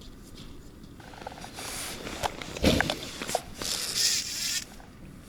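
Rustling and scraping of close handling noise, with a few small clicks and one dull thump about two and a half seconds in.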